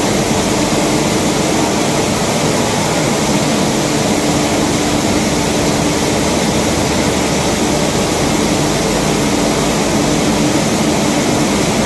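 Maize flour milling plant machinery running: a steady mechanical din with a constant hum.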